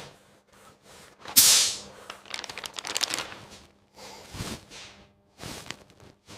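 Paint spray gun hissing in short bursts as primer is sprayed onto a body panel: a strong burst about a second in that fades quickly, a run of rapid clicks, then two shorter bursts near the end.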